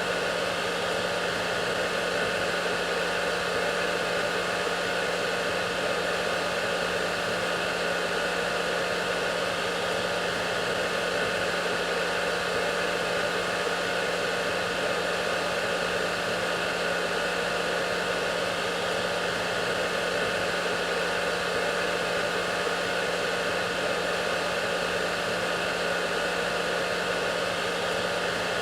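Hair dryer running steadily: a constant airflow rush with a steady motor hum beneath it, unchanging throughout.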